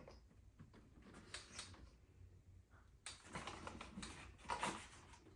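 Quiet handling noises from unpacking a robot vacuum: three short bursts of rustling and light knocking, the last near the end the loudest.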